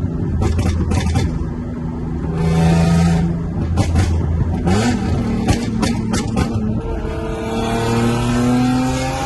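Car's V6 engine and aftermarket exhaust: running at low revs with a series of sharp pops and cracks, then revving up steadily under acceleration over the last couple of seconds.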